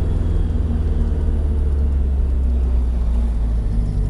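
Flat-four boxer engine of a car with a modified, louder exhaust, running steadily with a deep, even low rumble.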